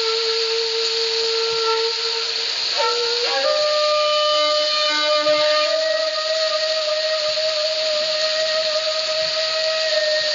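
Background music: a breathy flute holds long sustained notes, sliding up to a higher note about three seconds in, over a steady hiss.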